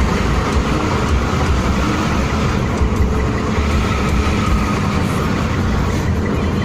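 Steady traffic noise at highway speed, about 80 km/h: engine and road noise with a heavy, wavering low rumble, picked up on a handheld phone close behind a bus.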